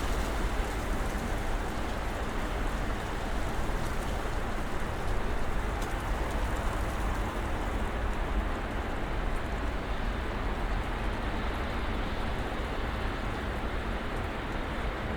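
Snowstorm ambience: a steady hiss of wind and falling snow over a low rumble, with a few faint ticks.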